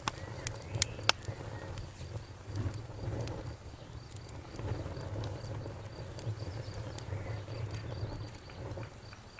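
Campfire crackling, with several sharp pops in the first second or so over a low, steady rumble of burning wood. A cricket chirps steadily and faintly in the background.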